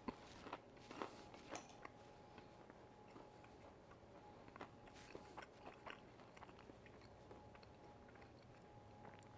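Faint chewing of a bite of panko-breaded chicken parmesan: soft, irregular crunches and mouth clicks.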